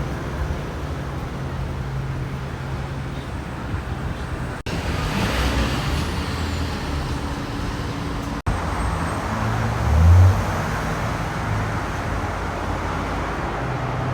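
Road traffic with trucks passing: steady engine drone and tyre noise. The sound cuts out abruptly twice, about a third and two-thirds of the way through, and a louder low engine swell comes about ten seconds in.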